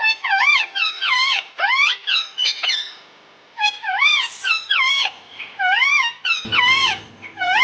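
Pet parrot calling in a quick series of short whistled calls that swoop up and down in pitch, with a brief pause partway through. Background music comes in near the end.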